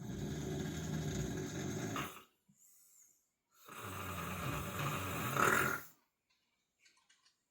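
Boxer dog snoring in its sleep: two long snores, each about two seconds, with a faint breath between them.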